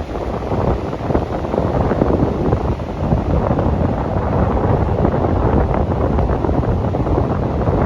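Wind blowing hard across the microphone: a loud, rough, fluttering rush with no steady tone.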